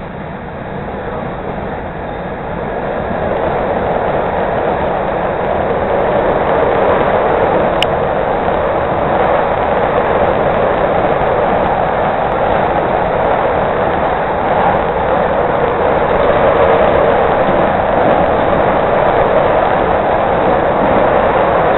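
Chicago 'L' rapid-transit train heard from inside the car, pulling away from a station: the wheel and motor noise grows over the first several seconds as it gathers speed, then runs steadily along the elevated track.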